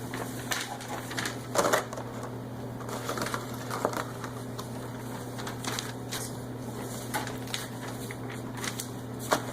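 Newspaper being spread out and handled on a table, with irregular crinkles and light taps over a steady low electrical hum.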